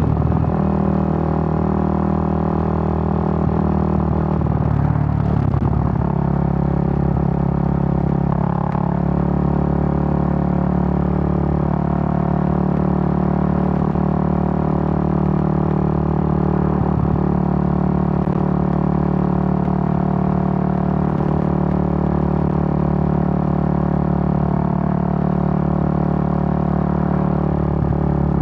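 Suzuki GN125's single-cylinder four-stroke engine running at a steady speed under way, with a brief dip in engine speed about five seconds in.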